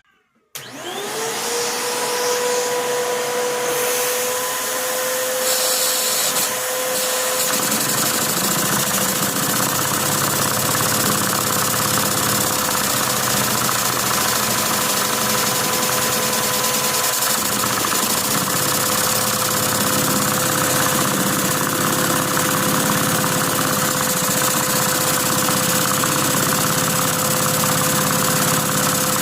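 A Lego overhead-valve vacuum engine running on the suction of a vacuum cleaner: the vacuum cleaner's motor starts about half a second in with a quickly rising whine that settles to a steady tone, while the engine's plastic parts clatter rapidly throughout.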